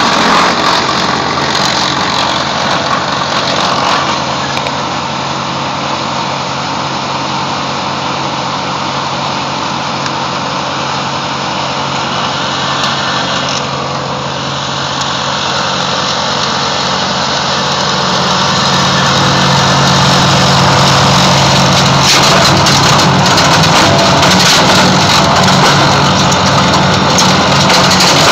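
Wood chipper's engine running steadily, getting louder about two thirds of the way through.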